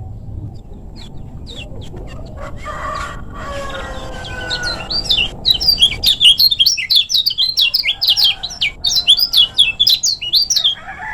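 Kecial kuning (yellow white-eye) singing a loud, rapid, chattering run of high chirps from about six seconds in. Before it come lower, drawn-out calls from chickens clucking.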